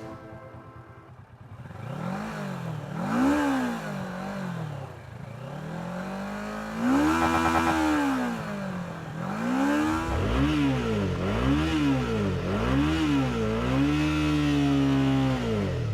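650 cc twin-cylinder adventure-tourer motorcycle engine revved at a standstill toward the redline for a vibration test. It rises and falls several times, holds a high rev about seven seconds in, gives four quick blips in a row, then holds once more and drops back to idle near the end.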